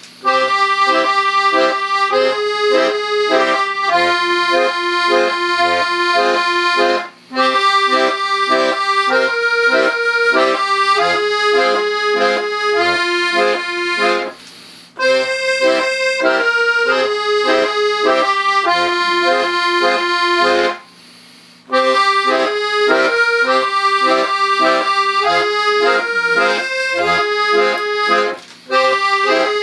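Hohner accordion playing a folk tune: a melody over held chords with short bass notes, stopping briefly four times between phrases.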